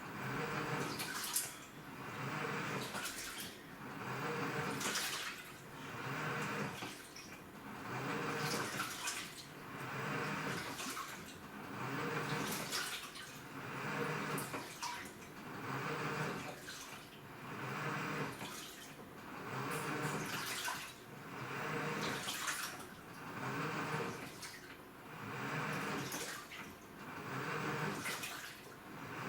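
AQUA washing machine with a direct-drive inverter motor churning its load in 55 litres of water: the water sloshes in even surges about every two seconds as the wash action swings back and forth.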